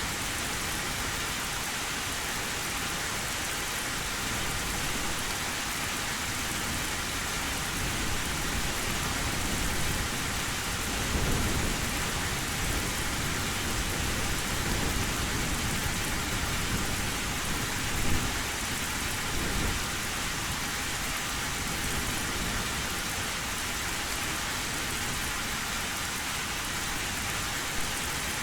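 Heavy rain falling steadily on a metal roof, with thunder rumbling low about a third of the way in and again a little past halfway, where it peaks in a short sharp crack.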